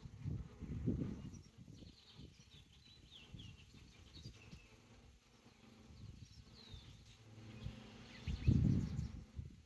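Birds chirping in short calls over the faint steady hum of a honeybee swarm. Wind rumbles on the microphone twice, about a second in and again near the end.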